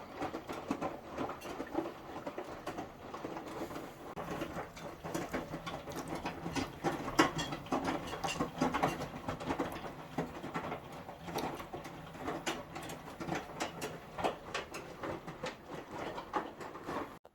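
Indesit 9 kg washing machine in its wash cycle, running with its top and back covers off: the drum turning wet laundry, with a constant irregular patter of splashing and small clicks and knocks.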